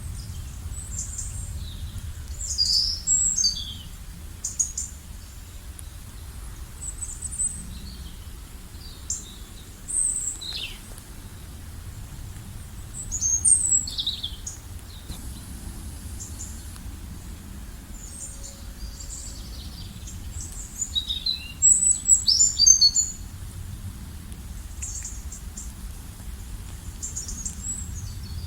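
Several small birds chirping and singing in short high phrases over a low steady ambient rumble, with the busiest bursts of calls around the middle and toward the end.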